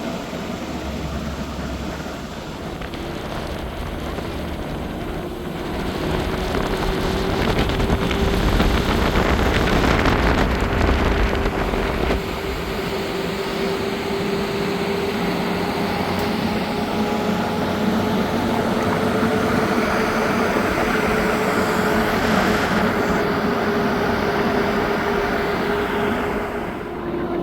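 Motor vehicle on the move: a steady engine hum that rises slowly in pitch, over rumble and road and wind noise, loudest in the first third.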